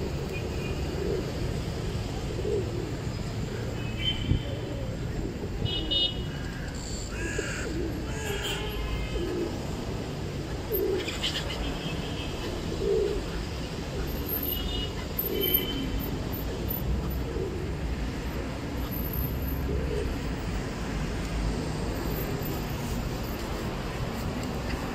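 Birds calling in a scatter of short calls, most of them in the first two-thirds, over a steady low rumble of city street traffic.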